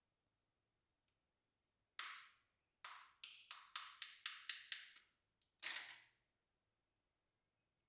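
A string of crisp, sharp pops with short decaying tails: one, a pause, then a quick run of about eight at roughly four a second, and one more about a second later.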